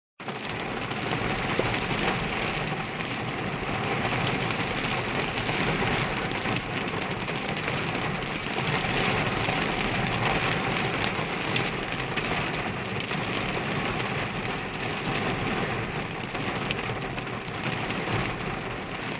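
Heavy thunderstorm rain pelting a car's roof: a dense, steady patter threaded with many sharp individual drop hits.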